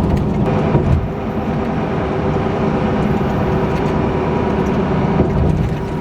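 Steady road and engine noise of a diesel truck being driven, heard from inside the cab.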